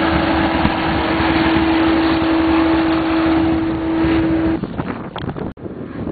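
Car engine running steadily and loud, with one constant whine over it. About four and a half seconds in it cuts off abruptly to a quieter, uneven vehicle sound.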